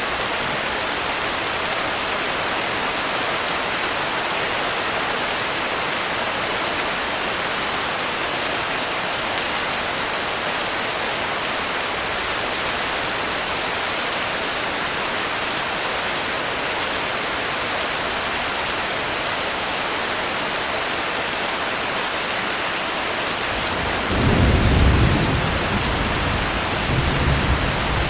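Steady rain hissing. Near the end, a low thunder rumble swells and fades, then a second, weaker rumble follows.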